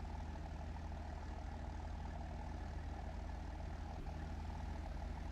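Heavy truck engine running steadily, a low even rumble that holds the same pitch throughout.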